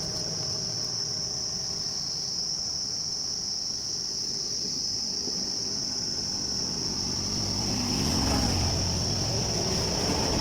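Insects, crickets or cicadas, keep up a steady high-pitched drone, over a low engine rumble that grows louder about eight seconds in.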